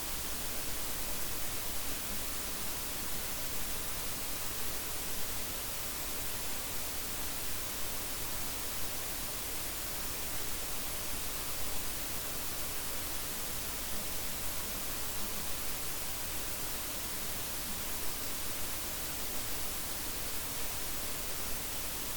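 Steady background hiss from the recording, with no other sound: room tone.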